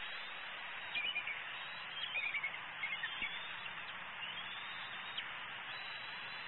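Steady outdoor hiss with scattered short, high bird chirps, including a quick run of four or five chirps about two seconds in and a short rising call a little past the middle.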